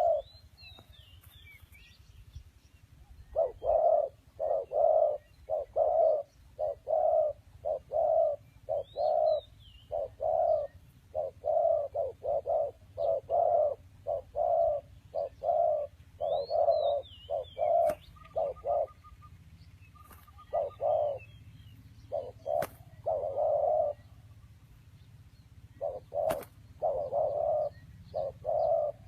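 A bird repeating short, low hooting or cooing notes, about two a second, in long runs with a few pauses. Thin, high chirps from smaller birds come in now and then, and a few sharp clicks are heard.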